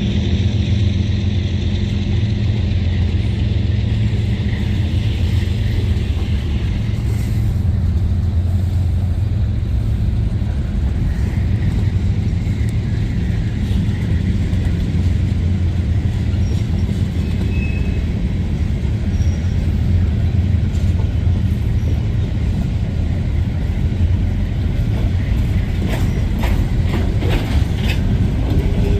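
Diesel train locomotive running with a steady, loud low rumble; a run of sharp clicks comes in near the end as the train's wheels begin to sound on the rails.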